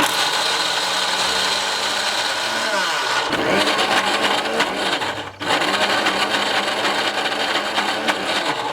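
Electric mixer grinder running loud while grinding green maize kernels, starting abruptly. About three seconds in its pitch falls as it winds down, then it is switched on again; it cuts out briefly once more and stops near the end.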